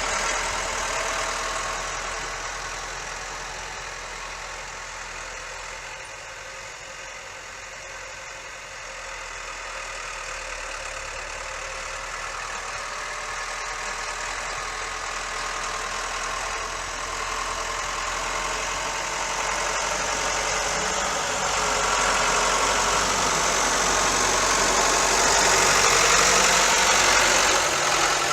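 Ford 7710 tractor's diesel engine running steadily, fading a little a few seconds in and growing louder again toward the end.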